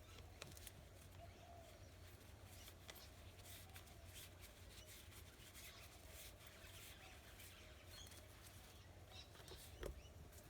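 Near silence: faint rubbing and scattered small clicks, as screws are turned by hand into wall plugs to fix the outdoor tap to the wall.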